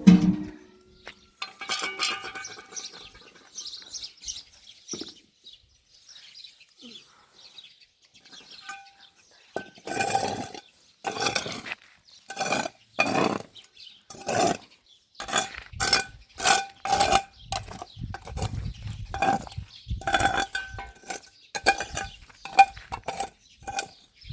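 Kitchenware clinking: a run of sharp strikes that each ring with the same clear note, coming closely spaced through the second half after a quieter stretch.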